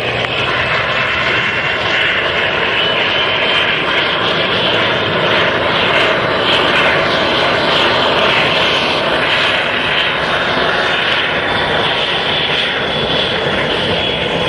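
Single-engine propeller airplane's engine running loud and steady as it flies past, swelling slightly toward the middle and easing off again.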